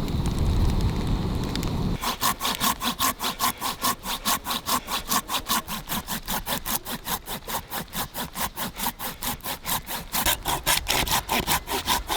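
Silky handsaw cutting through a piece of hardwood, in fast, even strokes about five a second. The strokes start about two seconds in, after a low rumble.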